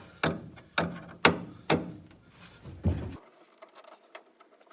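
Sharp knocks about twice a second, six in all, tools striking at the floorboard and transmission hump of a car being taken apart; they stop about three seconds in.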